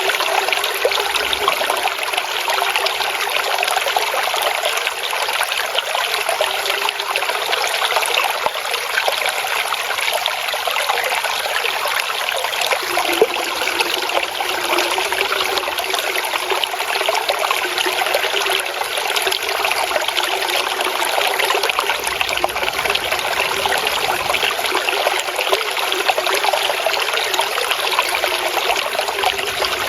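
Flowing water trickling and splashing steadily, a bright, even babble with little low rumble.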